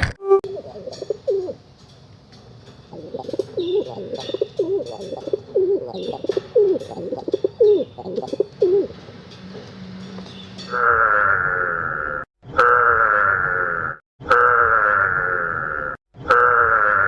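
Pigeons cooing: a run of short, low coos for about ten seconds. Then a different, steadier and higher sound takes over, repeated several times in pieces about a second and a half long, each cut off abruptly.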